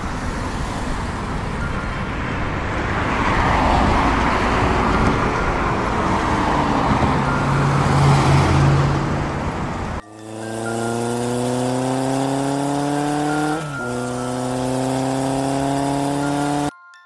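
Vehicle sound effects: about ten seconds of car engine and road noise that swells and fades, then a motorcycle engine revving, its pitch climbing, dropping once at a gear change and climbing again until it cuts off abruptly.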